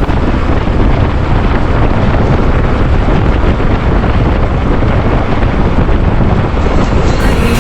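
Heavy wind buffeting on the microphone of a motorcycle being test-ridden, a loud, steady rumble of noise with no engine note standing out.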